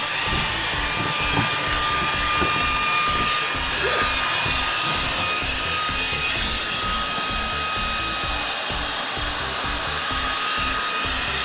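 Orfeld cordless stick vacuum running steadily, its motor giving a constant rushing noise with a thin high whine, as it sucks up construction debris.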